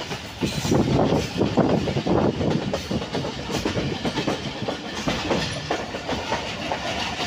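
Passenger coaches of a moving express train running on the track, heard from an open window: a steady rumble with a dense, uneven clatter of wheels over the rails.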